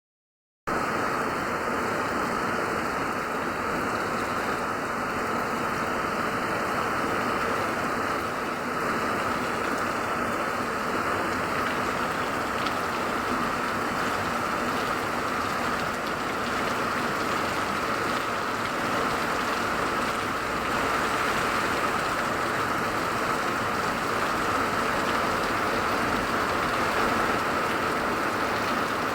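Steady rain falling, an even, constant hiss that starts just under a second in.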